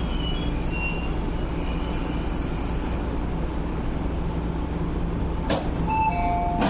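MTR MLR electric train standing at the platform: a steady low hum with an intermittent high whine. About five and a half seconds in comes a click, then a short falling two-note chime, then another click.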